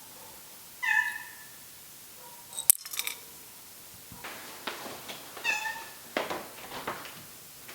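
Domestic cat giving two short meows, one about a second in and another about five and a half seconds in. There is a sharp click near the three-second mark, and scattered light knocks and rustles in the second half.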